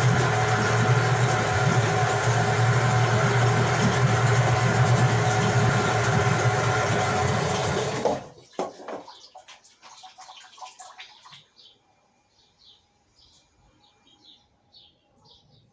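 Suzuki 8 hp two-stroke outboard running steadily on 50:1 premix in a water test barrel, then stopping abruptly about eight seconds in. Faint bird chirps follow.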